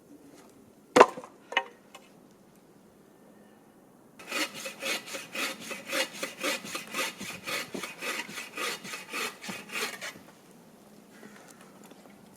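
Two sharp wooden knocks about a second in, then a hand saw cutting through hardwood firewood with quick, even back-and-forth strokes for about six seconds before stopping.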